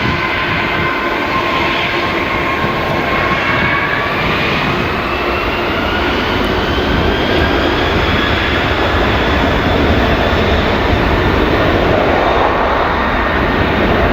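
Boeing 747's four jet engines at takeoff power during the takeoff roll, a loud steady noise with high whining tones that climb slowly in pitch over the first several seconds, growing a little louder in the second half.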